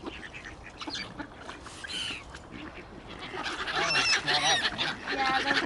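Several waterfowl honking and calling, the overlapping calls growing louder and busier from about three seconds in.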